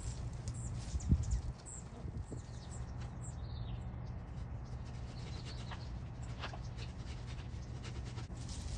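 Small birds chirping in short high notes over a steady low rumble, with a dull thump about a second in and a few scattered sharp clicks.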